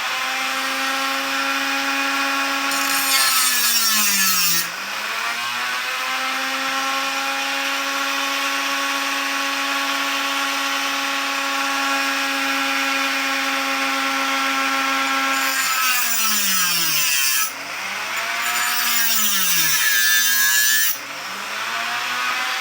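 Dremel rotary tool running at a steady high whine, with three spells of loud grinding hiss as the bit cuts starter notches into the steel spine of a butcher knife. The motor's pitch sags and picks back up several times, mostly near the end.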